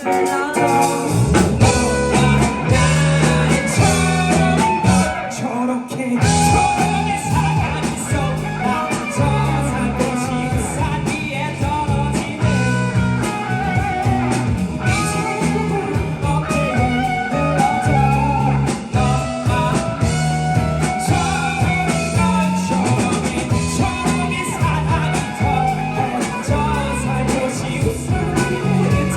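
A rock band playing live, with singing over guitar and drums; the low end drops out for a moment about six seconds in, then the full band comes back.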